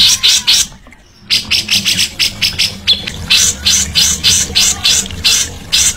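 Songbird singing a fast run of harsh, scratchy chattering notes, several a second, with a brief pause about a second in.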